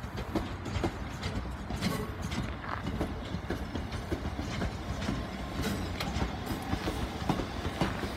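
Southern Class 377 Electrostar electric multiple unit arriving and rolling past the platform, a steady low rumble with its wheels clicking irregularly over the track joints.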